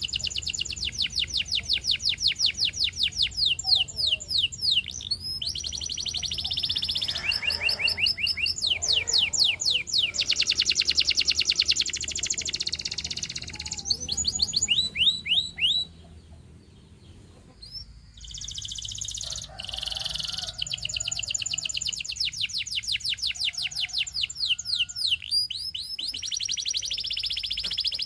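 Canary singing: long rolling trills of rapidly repeated notes in several phrases, with a short pause a little past the middle.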